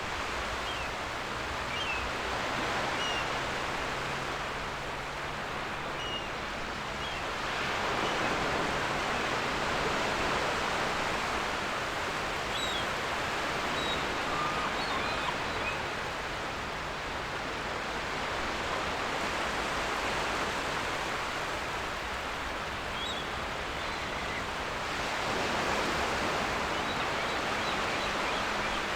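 Ocean surf washing on a beach: a steady rushing noise that swells twice, with short seagull calls scattered faintly over it.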